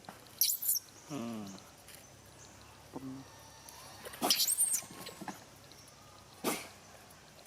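Baby macaque squealing in short, very high-pitched cries, about half a second in and again around four seconds. A lower, wavering call comes just after the first squeal, and a short noisy burst comes near the end.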